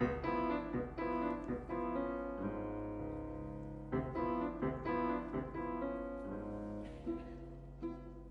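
Piano music: chords struck in quick groups, some notes held and fading, with a steady low hum underneath.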